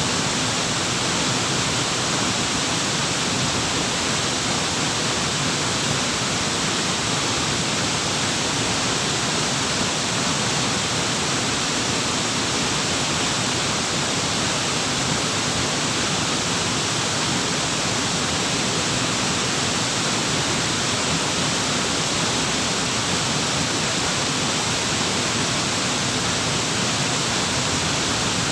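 Waterfall running: a steady, even rush of falling water with no breaks or changes.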